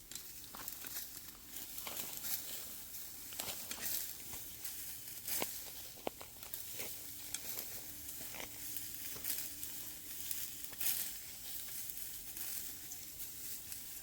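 Dry rustling and crinkling with scattered sharp clicks, irregular throughout.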